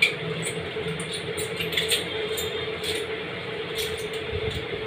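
Close-up eating sounds: chewing with many small, irregular mouth clicks over a steady low hum.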